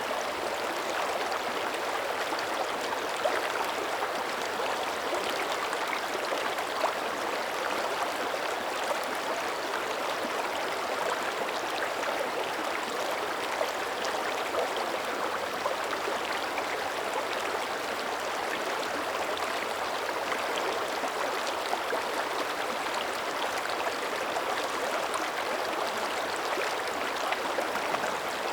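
Mountain creek flowing: a steady rush of running water with many small ticks scattered through it.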